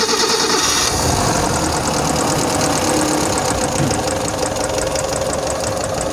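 Daihatsu Taft F10's original 1000 cc petrol engine running just after being started, a little louder in the first second and then settling into a steady idle. The sound is smooth, not like a diesel.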